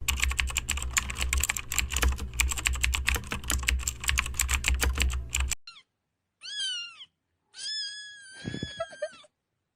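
Rapid computer-keyboard typing over a low steady hum, cutting off sharply about five and a half seconds in; then a cat meows twice, a short rising-then-falling meow and a longer drawn-out one.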